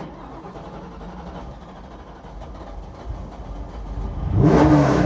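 Steeda-built 2002 Mustang Cobra race car's 5.0-litre stroker DOHC V8 being started, heard from inside the cockpit: about three seconds of steady cranking, then the engine catches with a deep rumble and is blipped, its revs rising and falling near the end.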